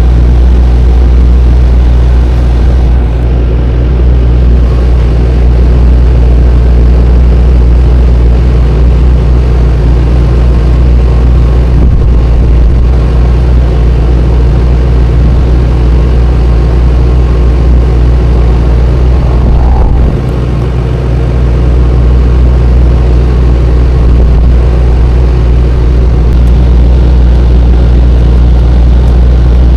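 Tractor-trailer's diesel engine running steadily under way, a loud low drone, briefly dipping about twenty seconds in.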